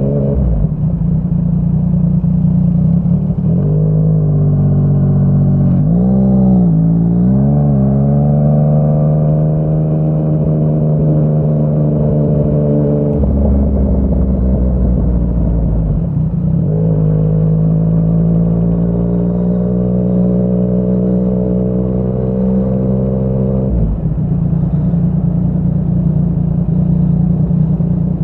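Yamaha MT-09's three-cylinder engine through a Yoshimura R55 slip-on exhaust, under way: the revs rise and fall a few seconds in, then it holds a steady note at cruise. The throttle closes about thirteen seconds in, opens again around seventeen seconds and closes once more near the end.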